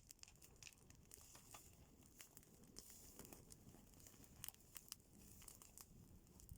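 Faint, scattered crackles and rustles, irregular sharp ticks over a quiet background.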